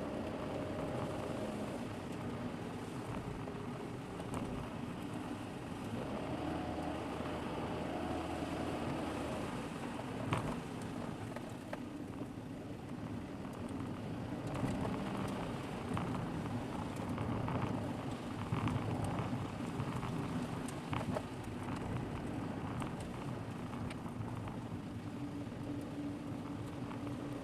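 Car driving, heard from inside through a dashboard camera: a steady engine hum that shifts in pitch, with tyre and road noise and a few sharp knocks from the road surface.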